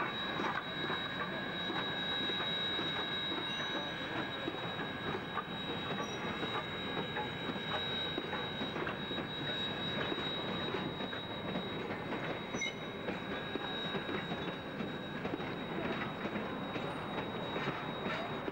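Steam-hauled passenger train rolling steadily past, its carriage wheels clicking over the rail joints with a steady high-pitched wheel squeal.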